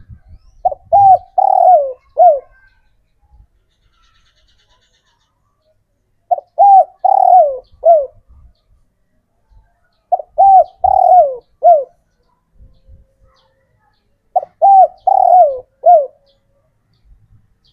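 Male spotted dove (tekukur) cooing: four phrases of about five notes each, the longer notes dropping in pitch at the end, repeated roughly every four seconds. This is the male's territorial and courtship call, used to call females.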